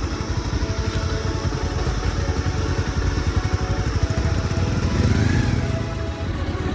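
Motorcycle engine running steadily under way, a dense low pulsing from its exhaust, swelling briefly about five seconds in.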